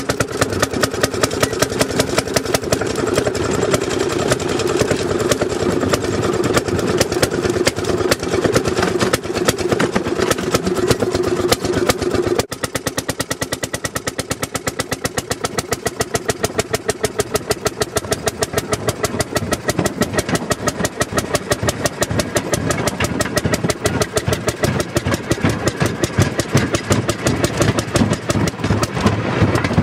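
Railroad speeder's small engine running under way on the track, a rapid, even beat of exhaust pulses. The sound changes abruptly about twelve seconds in.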